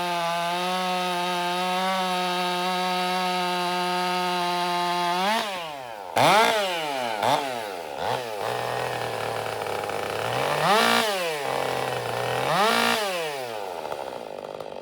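Stihl MS 400 C-M two-stroke chainsaw, modified by Mastermind, running at full throttle in a cut for about five seconds. It then drops to idle and is blipped up and down several times before it is shut off at the end.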